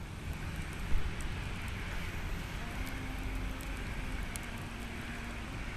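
Small wood fire crackling in a folding tabletop fire pit: scattered sharp pops and clicks over a steady rushing hiss and low rumble, with a louder pop about a second in.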